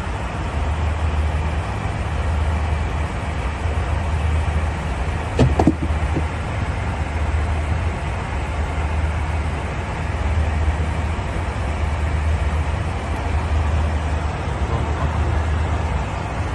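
Steady in-flight cabin noise of a commercial airliner: engine and airflow noise with a strong low hum. One short knock about five and a half seconds in.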